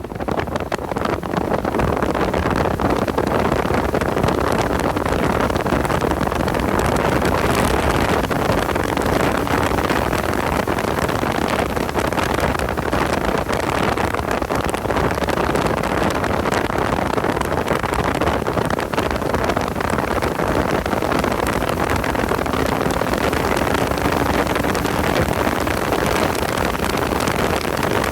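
Car engine running under load at track speed, heard with heavy wind noise on the microphone.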